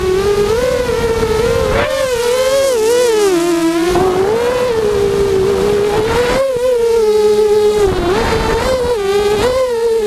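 FPV quadcopter's motors and propellers whining, the pitch swooping up and down with the throttle.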